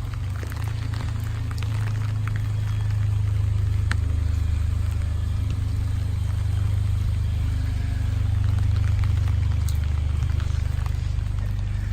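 Steady low rumble, the loudest sound throughout, over rain falling with scattered light drip ticks.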